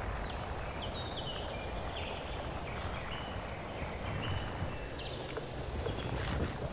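Steady low outdoor rumble with a series of short, high, level-pitched bird calls that step up and down in pitch, and a sharp knock near the end.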